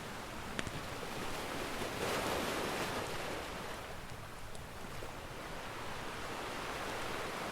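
Ocean surf: a wave swells and washes in about two seconds in, then draws back. A single sharp crackle from a wood fire sounds just before.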